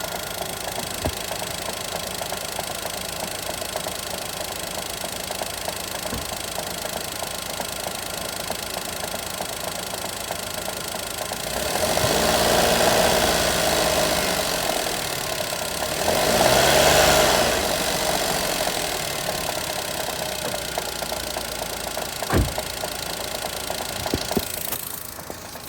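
Daihatsu Mira engine idling with a rapid knocking, revved up and back down twice, about midway and again a few seconds later; the knock is the engine fault on show. A single sharp knock sounds near the end.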